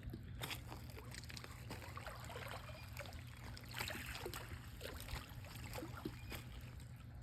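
Faint pool water trickling and lapping, with scattered small ticks and splashes over a steady low hum.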